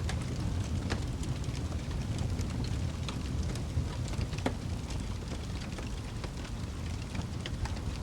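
Wood fire burning in a fireplace: a steady low rumble of flames with irregular crackles and pops, the sharpest about a second in and about four and a half seconds in.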